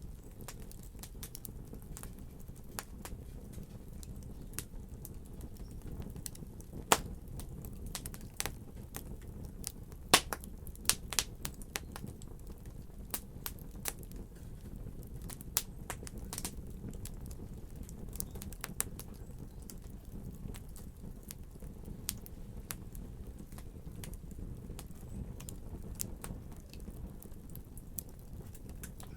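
Wood fire crackling in a fireplace: a steady low rumble of flames with irregular sharp pops and snaps, a few louder pops about seven seconds in and around ten to eleven seconds in.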